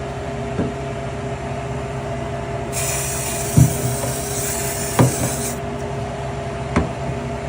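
WD-40 aerosol can spraying in one steady hiss lasting about three seconds, starting near the middle. A few short knocks, as metal tools and parts are handled, come before, during and after it, over a steady hum.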